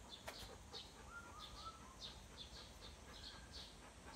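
Faint bird chirping: short high chirps several times a second, with a few lower short calls among them.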